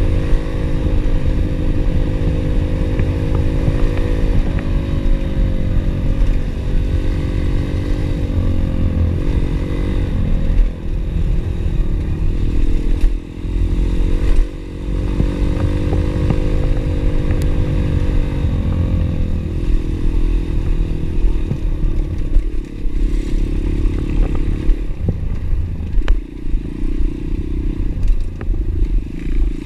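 Pit bike engine running while riding, its pitch rising and falling with the throttle, with a heavy low rumble and some clatter. The sound drops briefly a few times near the middle.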